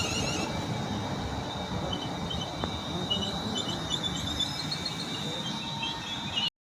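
A Class 350 electric multiple unit standing at the platform during its stop, giving a steady low rumble and hum with a thin high-pitched whine above it. A few faint short chirps sound in the middle.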